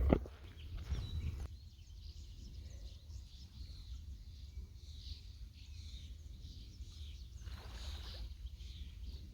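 Small birds chirping repeatedly over a steady low wind rumble on the microphone, with a sharp thump at the very start.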